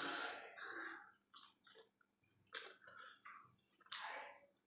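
Close-miked eating sounds: a person chewing and biting a mouthful of chicken kosha curry with potato, in short, irregular wet mouth noises. A louder noisy stretch comes in the first half second, as food is taken from the plate.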